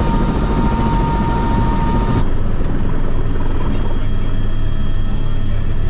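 Helicopter running loudly and steadily, with a high whine over its rotor and engine noise. About two seconds in, the whine and the upper hiss stop abruptly and a duller, steady running sound carries on.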